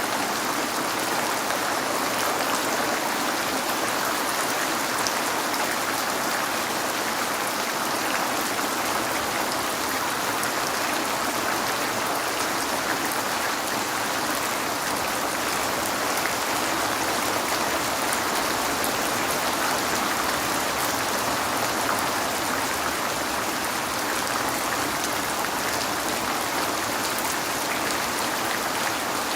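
Steady heavy rain falling on a window, a dense even patter of drops.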